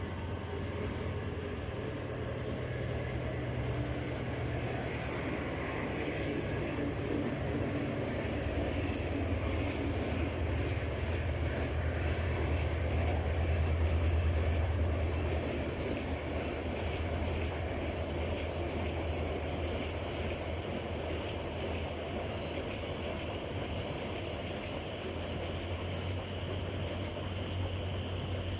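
A train running, a steady low rumble with a hiss above it that swells to its loudest about halfway through and then eases.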